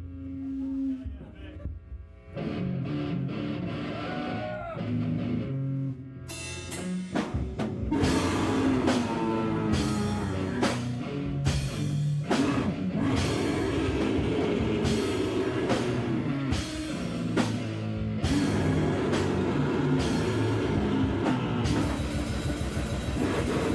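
Live band playing loud noise rock on drum kit and guitar. It starts sparse with a few held tones and notes, then the drums and full band come crashing in about six seconds in and keep going.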